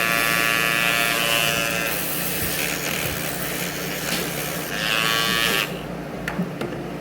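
Rotary nail grinder running with a high whine, then a rougher grinding noise as it works on a dog's nail. The whine returns briefly and the grinder stops just before the end, leaving a few faint clicks.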